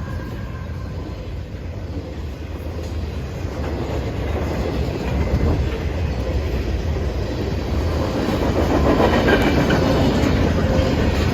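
Train passing a railroad grade crossing, its wheels rumbling on the rails and getting louder over the last few seconds.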